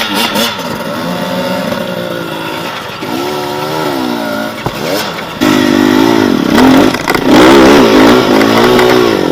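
Enduro motorcycle engine revving up and down as it is ridden off-road, the pitch repeatedly rising and falling; it gets louder about halfway through, with bursts of throttle.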